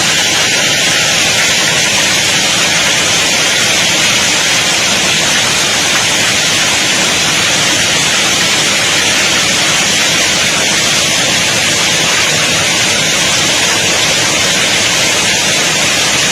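Heavy rain mixed with falling hail, a loud, steady hiss of many small impacts.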